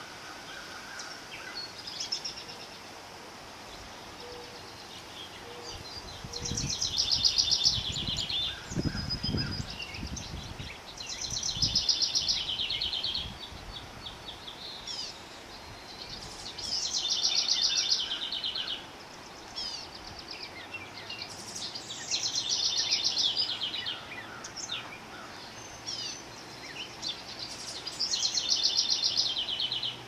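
A songbird singing a short, fast trilled song of about two seconds, five times at roughly five-second intervals, with faint scattered chirps between. A low rumble comes in between about six and eleven seconds in.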